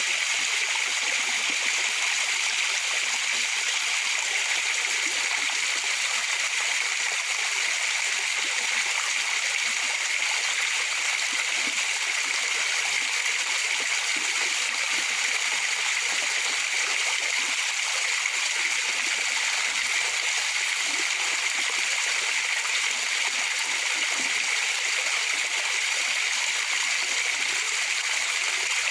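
Waterfall rushing and splashing steadily, an unbroken hiss of falling water with little deep rumble.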